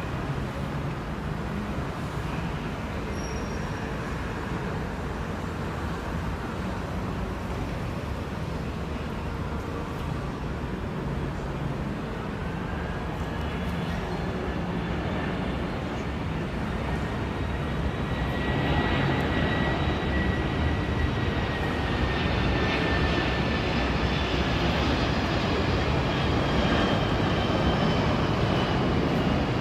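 Boeing 767-300 freighter's twin jet engines on approach: a steady rumble, with a high whine coming in about halfway through and the sound growing louder over the last third as the airliner nears.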